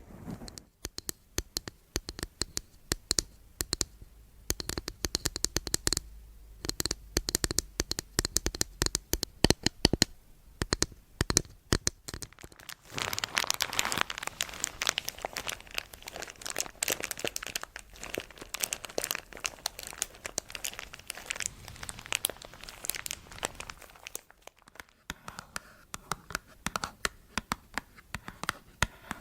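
Close-miked crinkling and crackling, made up of many sharp clicks and taps, thickening into a dense crackle about halfway through before thinning to lighter taps.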